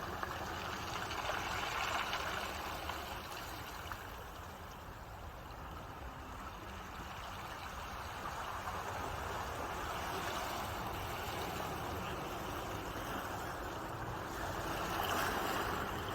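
Ocean waves washing in and drawing back, a continuous rush of surf that swells about two seconds in, again midway, and most strongly near the end.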